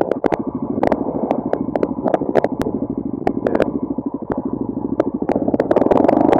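Wind and road noise buffeting an Akaso action camera's built-in microphone at about 75 mph: a muffled, fluttering rumble with sharp clicks scattered through it, growing louder near the end.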